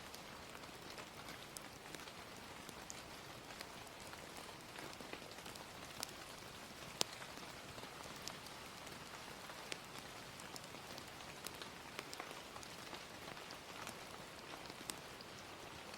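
Steady gentle rain hiss with scattered sharp crackles and pops from a wood fire, one louder pop about seven seconds in.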